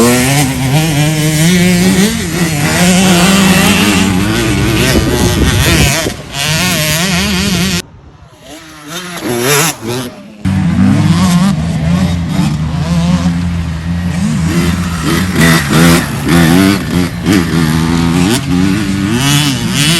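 Motocross bike engines revving up and down as they ride around the track, the pitch rising and falling with the throttle. The sound drops away suddenly about eight seconds in and comes back loud about two seconds later.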